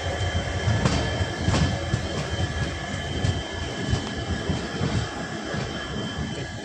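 Indian Railways express passenger train running, heard from inside a sleeper-class coach: a steady rumble of wheels on track with a few sharp clicks and a thin steady high tone throughout.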